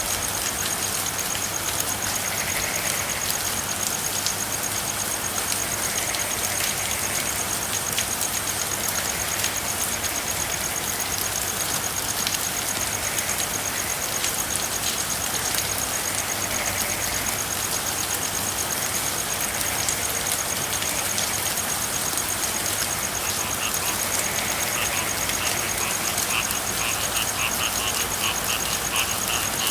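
Steady rain with frogs calling. Soft calls come every couple of seconds under a high, fast, steady trill. From about three-quarters of the way in, a frog's rapid pulsed croaking comes in and grows louder.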